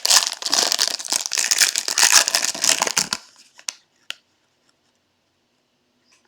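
Crinkling of a plastic or foil wrapper being handled for about three seconds, stopping suddenly, then two light clicks.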